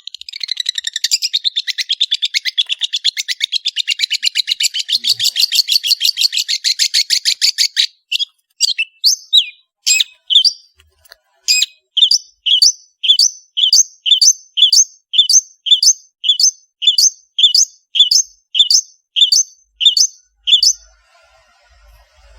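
Long-tailed shrike singing: a fast chattering trill for about eight seconds, then a run of separate sharp, high notes about two a second that stops shortly before the end.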